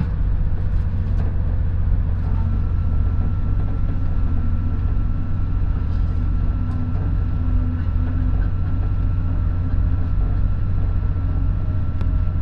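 Steady low rumble of a moving passenger train, heard from inside the carriage, with a faint steady whine from about two seconds in and a few faint clicks.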